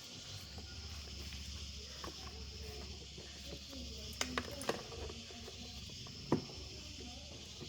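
A few sharp knocks and clicks over a steady high hiss and low hum. Three come close together about four seconds in, and the loudest comes about six seconds in.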